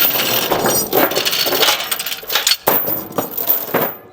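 Steel tie-down chain clinking and rattling against itself and the trailer deck as it is handled, in a quick irregular run of sharp metallic clinks.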